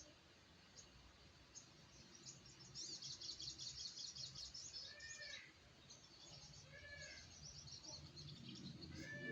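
Small songbird, a newly caught sogok ontong (sogon), twittering faintly in quick high-pitched runs, with a short arched whistle about every two seconds.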